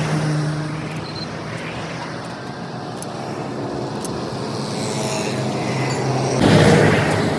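Motor vehicle engine running at a steady low hum, with a louder rushing swell about six and a half seconds in, like a vehicle passing close by.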